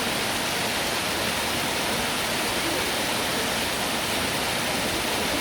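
Waterfall rushing: a steady, even roar of falling water with no pauses.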